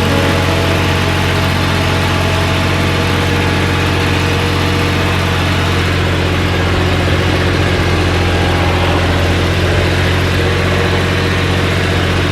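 Tractor engine idling steadily at an even speed.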